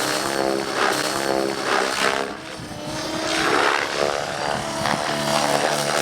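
Radio-controlled model helicopter flying aerobatics close overhead: its rotor and motor drone with a pitch that keeps rising and falling as it manoeuvres, briefly dropping in loudness about two seconds in.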